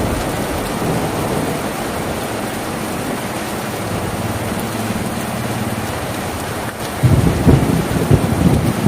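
Steady rain drumming on a tin roof, with a louder, low rumbling stretch starting about seven seconds in.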